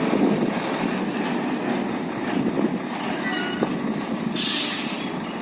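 Steady mechanical noise of a large truck heard inside its cab, with a brief hiss about four seconds in.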